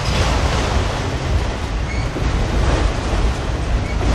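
Freight train cars rolling past on the rails: a steady loud rumble and rush of steel wheels that swells and eases as the cars go by, with a faint brief squeal about two seconds in.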